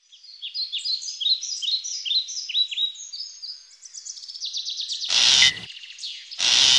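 Birdsong: many quick, repeated high chirps with downward-sweeping notes. Two short, loud bursts of noise cut in near the end.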